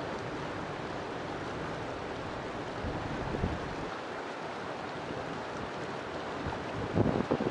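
River water flowing steadily, a continuous rushing hiss, with two brief louder low surges, about three seconds in and near the end.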